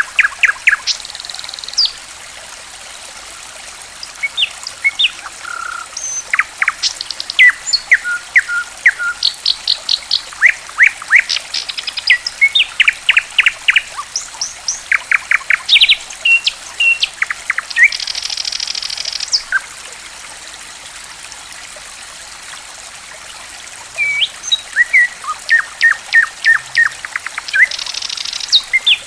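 Songbirds chirping in quick runs of sharp whistled notes, with a few short buzzy trills, over a steady trickle of running water. Near the middle the birds fall silent for about four seconds and only the water is heard.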